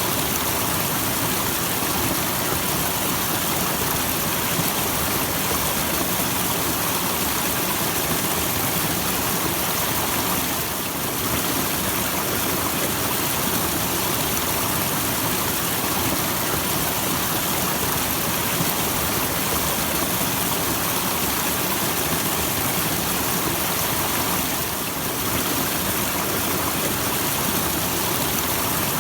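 Small waterfall: a steady rush of falling and splashing water that dips slightly for a moment twice.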